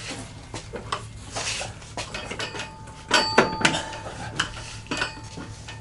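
Metal parts and tools clinking and knocking as a heavy transfer case is shifted into line with the transmission. About three seconds in comes a burst of louder metallic clanks, and one of them keeps ringing.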